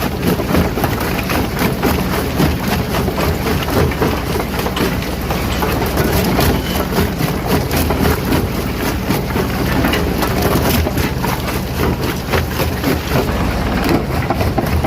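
Rock crusher running under load: a dense, continuous crackle and crunch of stone breaking over a steady low drone of heavy machinery.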